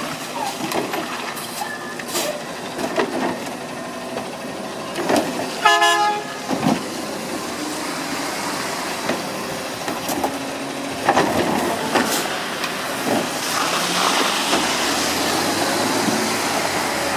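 Garbage truck at work: its engine running under scattered knocks and clanks, with one short horn toot about six seconds in.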